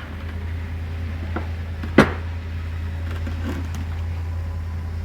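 Small engine parts being handled on a workbench: a few light clicks and one sharp knock about two seconds in, over a steady low hum.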